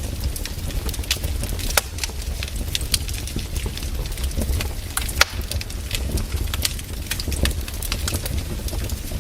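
Wood fire in a fireplace crackling, with frequent irregular sharp pops over a steady low rumble of the flames. The loudest pops come a little under two seconds in and about five seconds in.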